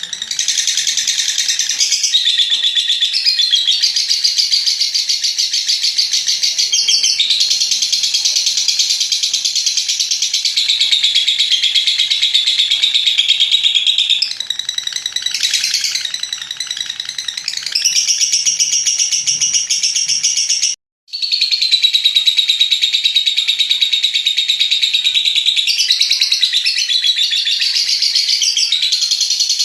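Lovebird singing its long 'ngekek' chatter: a rapid, high trill held unbroken for many seconds at a time, with a few short breaks. The sound cuts out completely for a moment about two-thirds of the way through.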